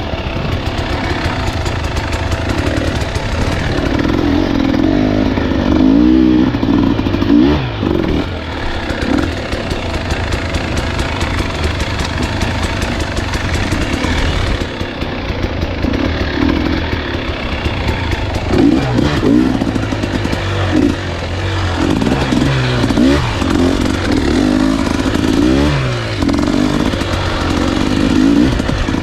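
Husqvarna enduro dirt bike engine being ridden on a trail, its pitch climbing and dropping over and over as the throttle opens and closes, with more frequent revving in the second half.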